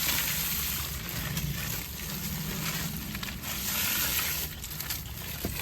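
Garden hose spraying water onto an outdoor AC condenser's coils in a steady hiss, rinsing off the foaming coil cleaner.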